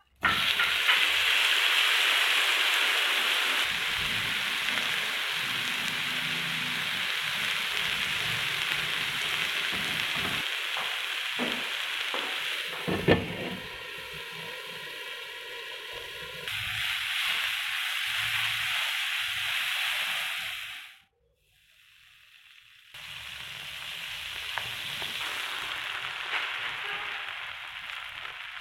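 Sliced capsicum and tomatoes sizzling on a hot grill pan, with one sharp clack about 13 seconds in as a glass lid goes on, after which the sizzle is quieter for a few seconds. After a short silence, butter sizzles more softly in the grill pan.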